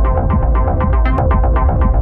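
Psytrance electronic dance music: a heavy, continuous bass under a fast, evenly repeating synth pattern of about eight notes a second.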